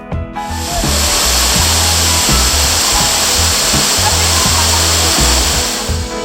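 Loud, steady rush of falling water from a waterfall, cutting in about half a second in and stopping just before the end, with background music and its bass line underneath.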